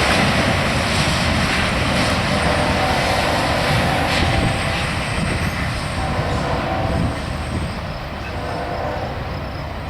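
Freight train rolling past, a dense steady rumble and rattle of railcars that slowly fades as the train moves away.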